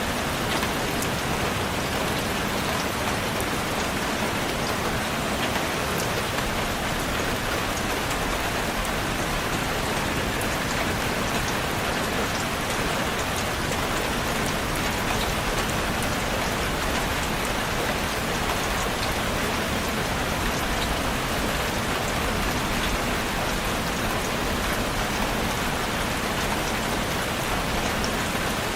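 Steady rain falling and pattering on a surface, an even dense hiss with scattered drop ticks and no breaks.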